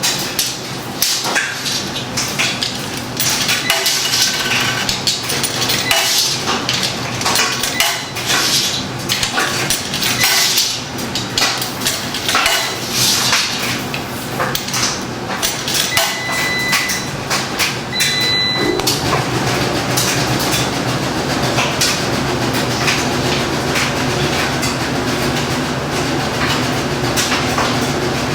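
Huebsch (Speed Queen) commercial washing machine running through its cycle: irregular clanking and knocking for the first half or so. Two short high tones sound about two-thirds in, and the machine then settles into a steadier mechanical hum.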